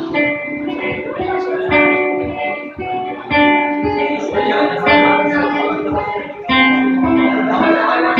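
Guitar playing an instrumental passage of plucked and strummed chords, with the notes and chord changes sounding clearly.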